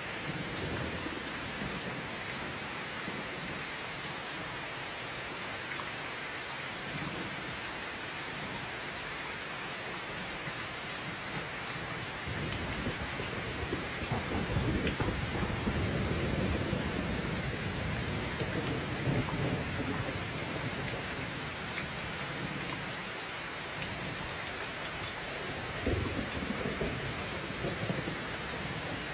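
Steady heavy rain, with a long roll of thunder swelling in about halfway through and dying away, and a shorter rumble near the end.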